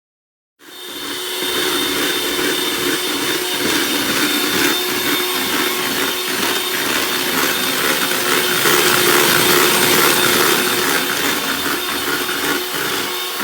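Loud, steady whirring of a small machine: a constant hum under a rushing noise, starting abruptly about half a second in.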